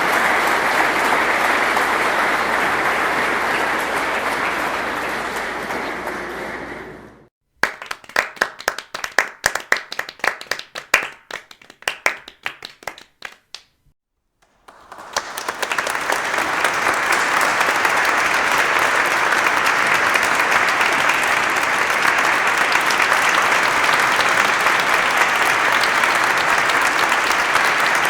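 Crowd applause that fades away, then several seconds of a few people clapping with separate, uneven claps. After a short break, dense crowd applause builds up again and carries on steadily.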